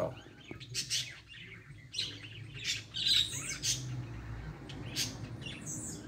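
Small birds chirping: short, high calls repeated at irregular intervals over a low steady hum.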